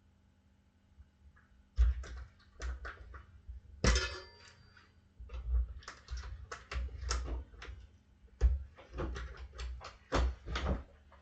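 Metal tire irons and tools clanking, knocking and scraping against a dirt bike wheel rim while the tire bead is levered over. There is a ringing metal clank about four seconds in and another hard knock past the middle.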